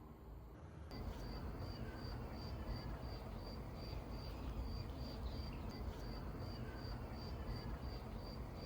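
A cricket chirping in an even rhythm of about three short high chirps a second, starting about a second in, over a low background rumble.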